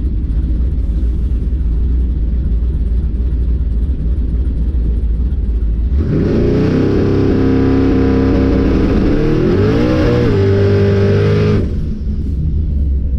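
Drag car's engine rumbling at idle with heavy low bass, then running hard from about six seconds in, its pitch climbing, dipping and climbing again near ten seconds. It cuts back sharply to a low rumble a little before the end.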